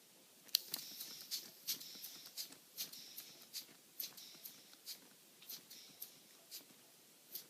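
Two-cylinder Lego pneumatic engine running on compressed air from small tanks: a rhythmic clicking and puffing of air from its valves and cylinders. It starts about half a second in at about three strokes a second and slows steadily as the tank pressure drops toward 15 psi.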